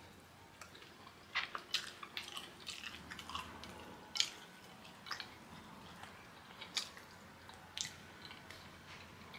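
A person eating kenkey, soft fermented corn dough, close to the microphone: wet chewing and lip smacks. A quick run of smacks comes in the first few seconds, then single ones about once a second.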